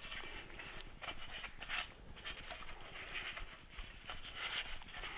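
A rag wiping and scrubbing the inside of a metal motorcycle engine case in short, irregular strokes, drying it and cleaning out fine metal sludge from a worn transmission.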